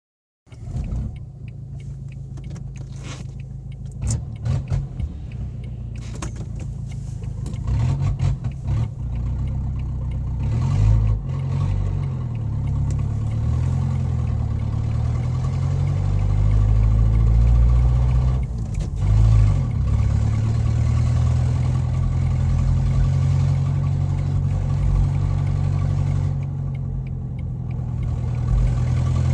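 2007 Renault Scenic engine running with an open, rattly exhaust note like a tractor, revved up and down several times through the middle. The uploader thinks a joint in the exhaust pipe has broken.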